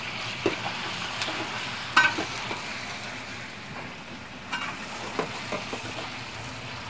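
Sliced marinated beef frying in hot oil in a wok: a steady sizzle, with scattered clinks and knocks of the metal ladle against the wok as the meat is stirred, the sharpest about two seconds in.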